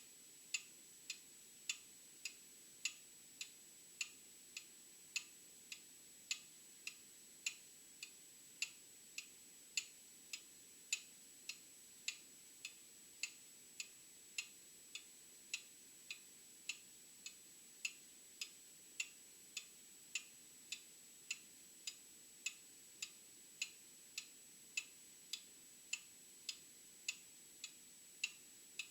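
An old mechanical clock ticking steadily, a little under two ticks a second, some ticks louder than others, over a faint steady high-pitched whine.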